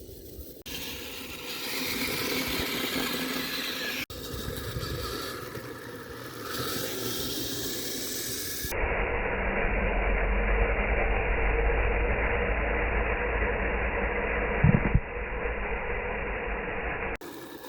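Kyosho Blizzard RC tracked snow vehicle driving on snow: its stock electric motor running and the tracks working, with mechanical rattle. The sound changes abruptly several times; for several seconds past the middle it is duller, with a heavy low rumble.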